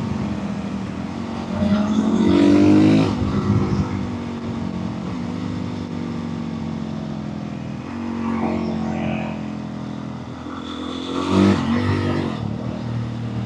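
Motorcycle engine running under way, its pitch climbing in three bursts of throttle between steadier stretches.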